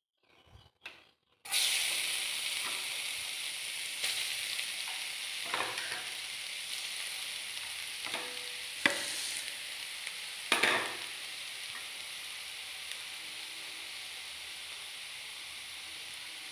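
Grated carrots dropped into hot ghee in a non-stick kadai, setting off a sudden steady sizzle about a second and a half in. A few sharp knocks and scrapes come as the carrots are stirred in the pan.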